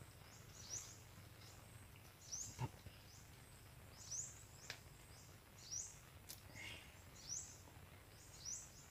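Faint bird calls: a short, high, rising chirp repeated roughly once a second, with a few soft ticks between them.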